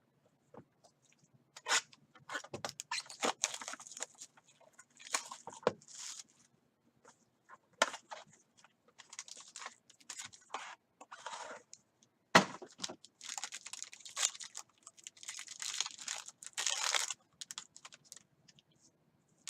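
Trading-card packaging being torn open and crinkled by hand: repeated ripping and rustling of wrap and wrapper, broken by sharp clicks and knocks, one loud snap about halfway through.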